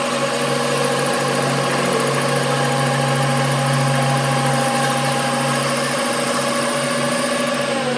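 Metal lathe running steadily, a steady hum with several whining tones over a metallic hiss; near the end one tone starts to drop in pitch as the machine begins to slow.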